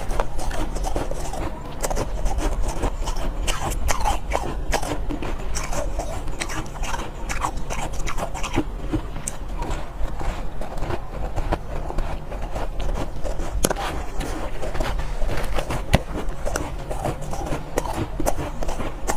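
Soft, powdery ice being bitten and chewed close to the microphone: a dense, continuous run of small crunches.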